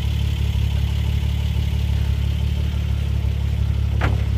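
A mud-covered off-road 4x4's engine idling, a steady low hum that does not change, with a brief short sound about four seconds in.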